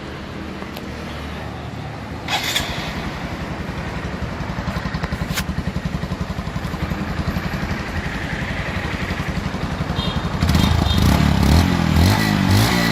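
Honda Monkey 125's single-cylinder four-stroke engine idling steadily through its exhaust, with a short knock a couple of seconds in. About ten seconds in it gets louder, and near the end the throttle is blipped, the revs rising and falling.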